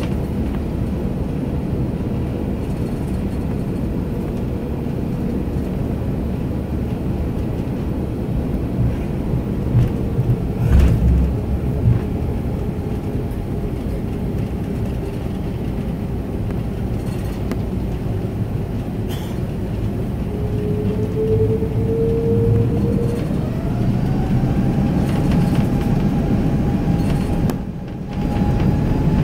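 Airbus A330-200 cabin noise from the front of the cabin: a steady rumble of the airliner rolling on the ground, with a few low thumps around ten to twelve seconds in. Past the middle, a whine rises in pitch and then holds, as the engines spool up for the takeoff roll.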